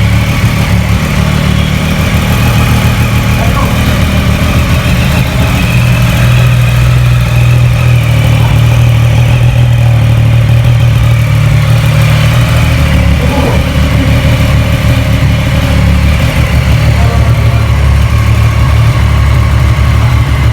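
Triumph Daytona 675R's 675 cc inline three-cylinder engine idling steadily and loudly just after being started.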